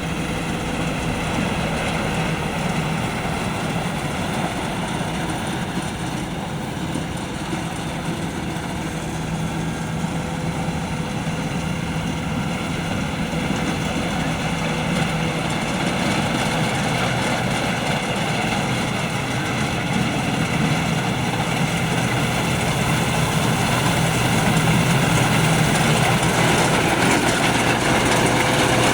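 Combine harvester running steadily while harvesting rice, a continuous engine and machinery drone that grows slightly louder toward the end.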